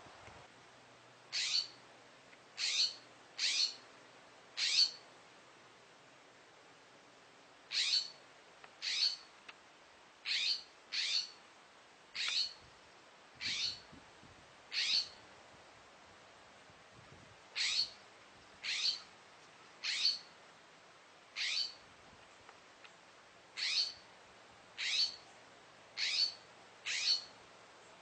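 A bird giving short, high calls over and over, about one a second, in runs of four to seven broken by pauses of two to three seconds.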